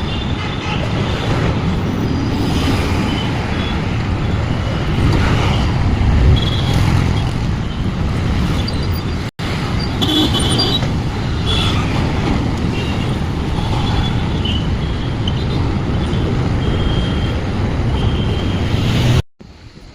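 Road traffic noise heard while cycling on a busy road: a steady, dense noise of passing vehicles, with a few short high-pitched tones here and there. The sound drops out for an instant about halfway through and cuts off just before the end.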